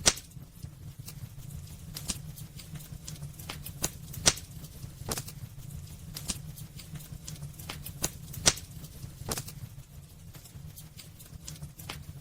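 Wood fire burning in a fireplace: irregular sharp crackles and pops over a low steady rumble, with the loudest pops right at the start, about four seconds in and about eight and a half seconds in.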